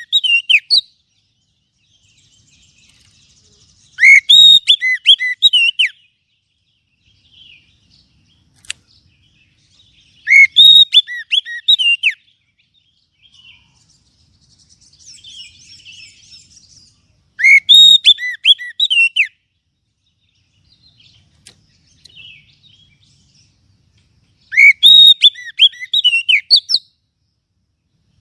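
Oriental magpie-robin (kacer) song: loud phrases of quick, varied whistled notes, each about two seconds long, repeated four times at roughly seven-second intervals. It is a calling song used as a lure to attract magpie-robins.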